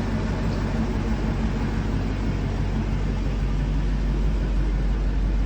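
A steady low mechanical hum with a constant deep drone under an even hiss, growing slightly louder near the end.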